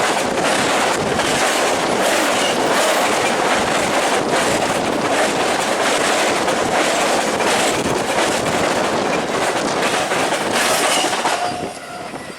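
Train cars rolling past close by, wheels clicking rhythmically over the rail joints. Near the end the sound drops away sharply as the last car goes by.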